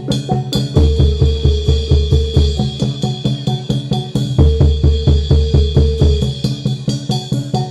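Live accompaniment for a Reog dance: rapid, driving drumming, about five strokes a second, under repeated pitched notes and a held high ringing tone.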